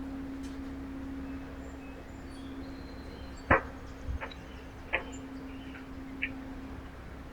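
A few sharp taps and knocks at a backyard bird feeder, the loudest about three and a half seconds in, over a steady low hum, with faint high chirps of small birds.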